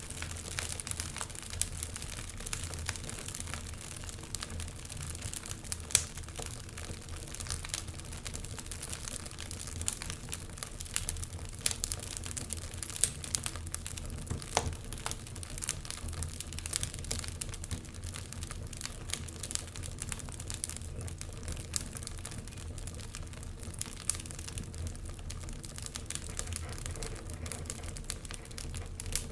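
Wood fire crackling, a steady stream of small pops and snaps over a low, even rumble from the flames, with one sharper pop about six seconds in.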